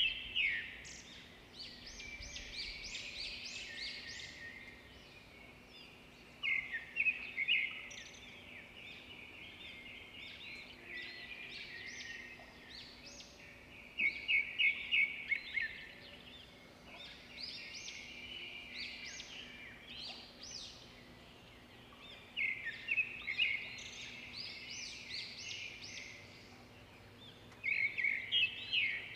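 Birds singing: loud bursts of rapid, repeated chirps every several seconds, with softer twittering in between.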